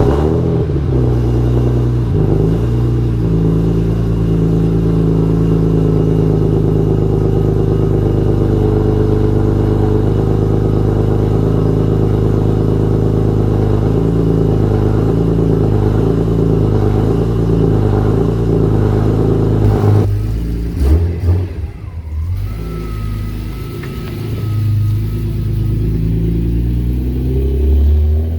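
A BMW E46 M3's 3.2-litre straight-six with a loud aftermarket exhaust, driven on track. It holds a steady, strong note for about twenty seconds. The note then drops and breaks up with a few sharp surges, and it builds again near the end.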